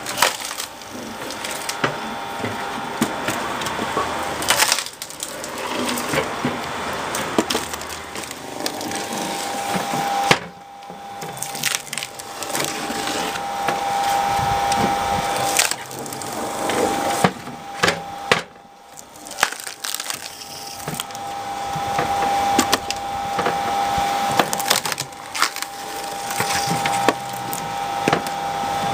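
Drill-cone log splitter boring into logs: a motor hum that comes and goes, with the wood creaking and cracking sharply many times as the cone forces it apart.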